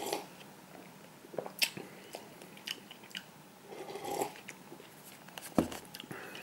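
A person chewing and eating a cup of instant noodles, close to the microphone: scattered small wet clicks and mouth noises. A single sharp knock comes near the end as the camera is handled.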